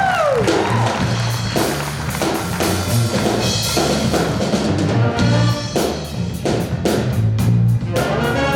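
Stage band playing a funk groove: drum kit and a repeating bass line, with sustained band chords coming in near the end.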